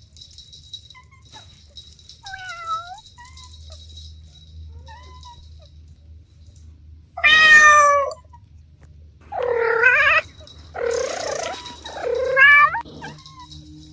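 Kittens meowing: a few faint, short, high mews, then a loud meow about seven seconds in, followed by three more loud meows in quick succession near the end.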